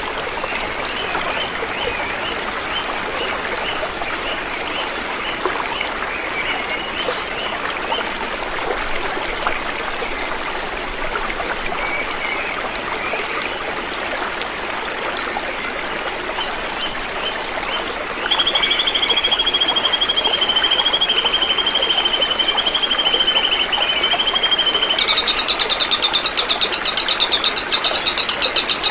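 Forest ambience of a running stream under repeated small bird chirps. About 18 seconds in, a loud, shrill, steady trilling call starts over it, and it switches to a higher, faster-pulsing trill at about 25 seconds.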